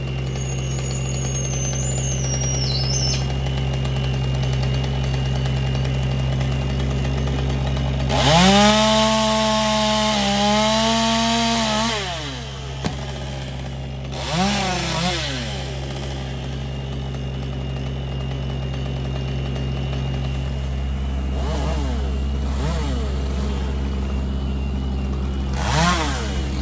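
Chainsaw revving up to full throttle about eight seconds in and held for about four seconds, with short revs again around fourteen seconds and near the end. Under it runs a steady low engine hum.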